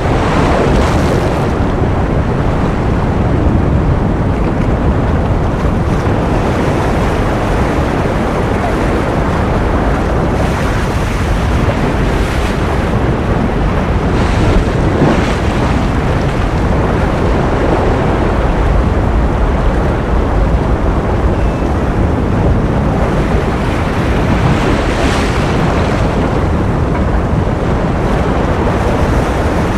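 Steady ocean surf: an even, continuous rush of water noise with no distinct wave breaks, and now and then a faint brief lift in the hiss.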